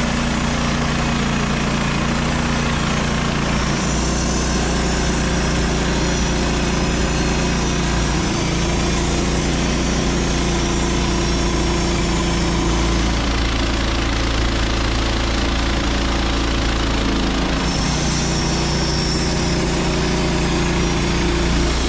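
An engine running steadily throughout, its pitch and tone shifting slightly a few times.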